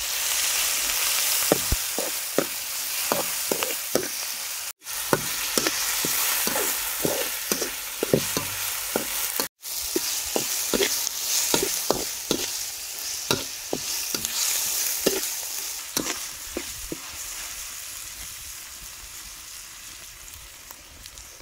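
Chopped onion, garlic, chili and green onion sizzling in hot oil in a metal wok, with a metal ladle scraping and knocking against the pan as it stirs. The sound breaks off twice briefly, and the sizzle and stirring fade toward the end.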